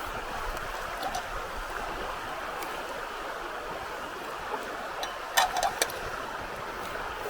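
Steady rush of flowing river water, with a quick cluster of sharp clicks about five and a half seconds in.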